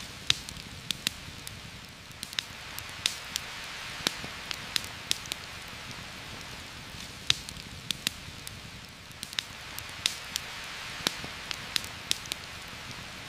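Steady heavy rain hiss through forest, with an open campfire crackling: irregular sharp pops and snaps, one or two a second.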